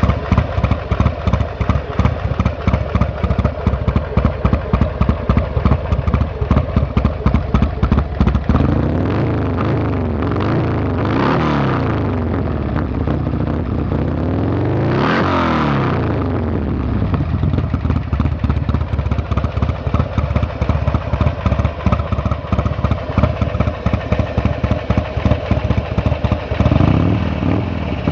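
Buell XB9R's V-twin engine through a race exhaust idling with an uneven, pulsing beat. It is revved twice in the middle, the second rev higher and longer, then drops back to idle, with one more short rev near the end.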